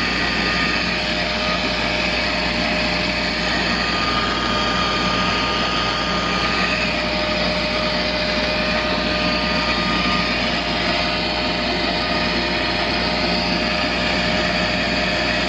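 Pool pump motor running steadily: a constant loud whirring with a faint whine in it.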